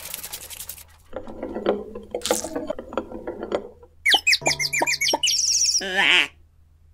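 Cartoon sound effects: a crash dies away at the start, then about four seconds in comes a run of quick rising bird tweets, the cartoon 'seeing stars' dizzy effect.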